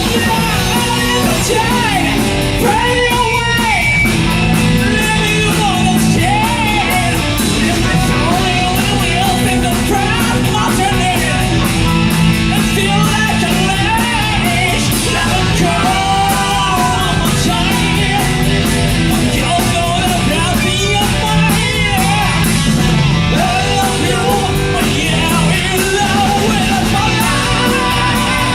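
Live hard-rock band playing loud, with a singer over guitar, keyboards, bass and drums.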